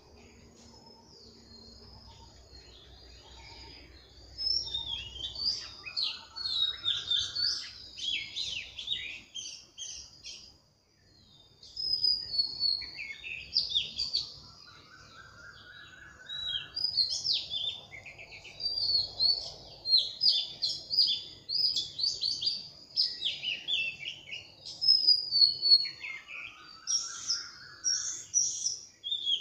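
Birds chirping: many quick high chirps and trills, with a short rising call that comes back three times.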